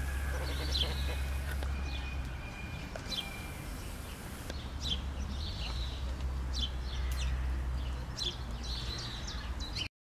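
Small birds chirping: short, high calls repeating every second or so, over a steady low hum. The sound cuts off suddenly near the end.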